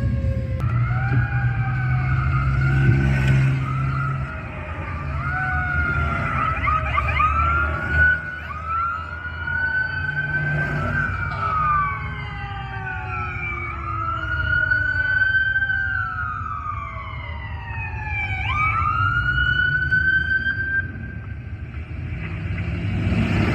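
Fire truck sirens wailing: several siren tones sweeping up and down and overlapping, with a quick dip and rise near the end, over the steady rumble of the truck's engine.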